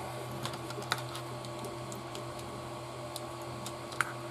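A few light clicks and taps of small plastic RC kit parts being handled and fitted together, over a steady low hum.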